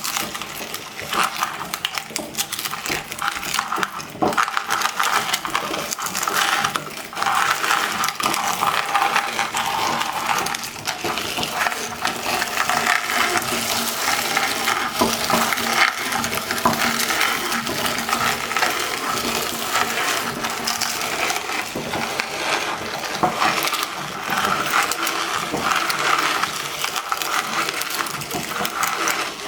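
Meat grinder crushing potato chips: a dense, continuous crunching crackle of many small snaps, with a faint steady hum underneath.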